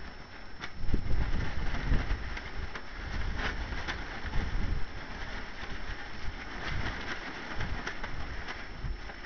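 Wind buffeting the microphone in uneven gusts, with a tarp flapping in it and giving irregular sharp snaps.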